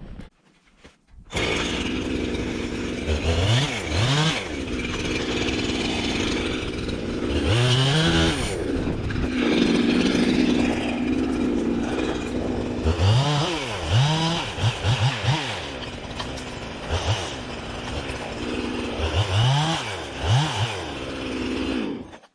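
Jonsered 2165 two-stroke chainsaw running, revved up to full throttle about four times and dropping back between revs while cutting small brush and saplings. It comes in abruptly about a second in and cuts off just before the end.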